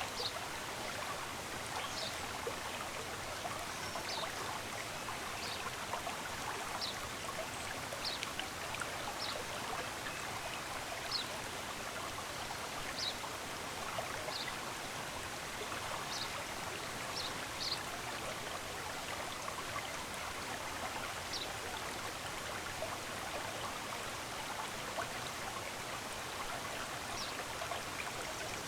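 Running water of a stream flowing steadily, with short, high bird chirps over it every second or two.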